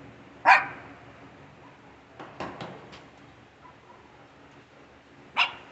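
A dog gives a short sharp bark about half a second in and another near the end, with a few light clicks in between.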